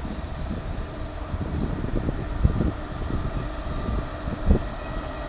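InterCity 125 High Speed Train standing at the platform with its power cars' diesel engines running: a steady low rumble with a faint hum on top. Two dull thumps come about two and a half and four and a half seconds in.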